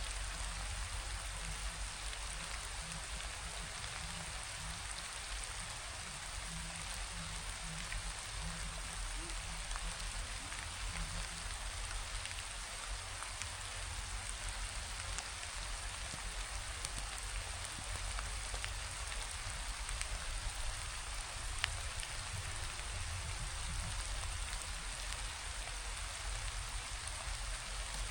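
Steady rain falling, with a few faint drop ticks through it.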